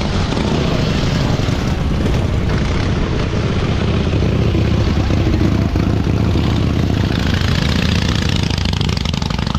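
Motorcycle engines running, a steady low engine rumble throughout.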